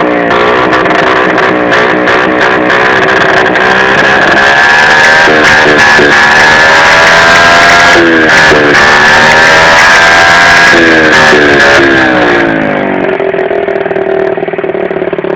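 Baotian 50cc scooter's engine through a stunt-version aftermarket exhaust, revved up and down repeatedly, very loud, with a strong steady high note over the sweeps. It drops back to a lower, steadier note near the end.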